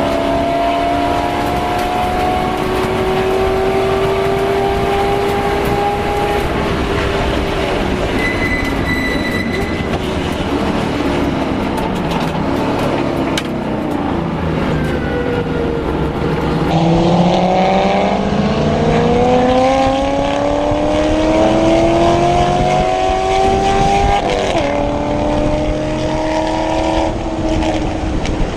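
GM LS V8 race engine under hard track driving. The note holds high, falls away for several seconds as the car slows for a corner, then climbs steadily under full throttle, with a quick drop at an upshift about three quarters of the way through and another near the end.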